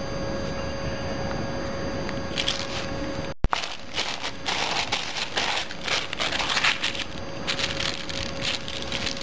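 A steady electrical hum with a thin steady tone, broken by a sharp click about three and a half seconds in, then irregular rustling and crackling handling noises.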